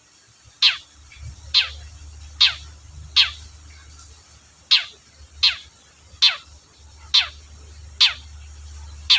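Long-tailed shrike (cendet) calling: a steady series of short, sharp calls, each sweeping down in pitch, about one a second, over a faint low hum.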